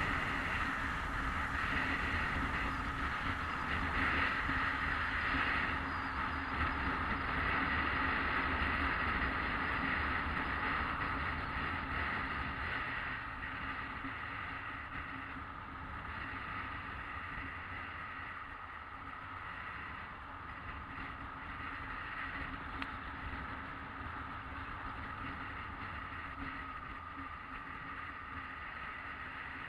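Yamaha XJ600S Diversion's air-cooled inline-four running steadily while the bike is ridden, with wind rushing over the microphone. It gets a little quieter about halfway through.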